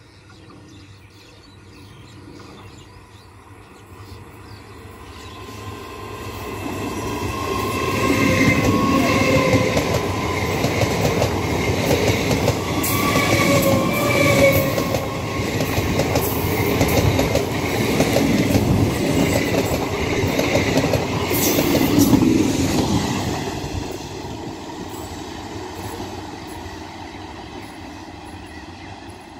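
Electric multiple unit (EMU) local train approaching slowly, growing louder, then running close past with a dense clatter of wheels on the rails before fading as it moves away. As it nears, two short steady tones sound a few seconds apart.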